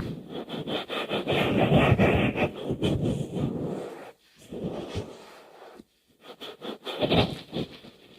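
ASMR scratching and rubbing close to the microphone: a rough, continuous rubbing for about four seconds, then after a short break a run of shorter scratching strokes.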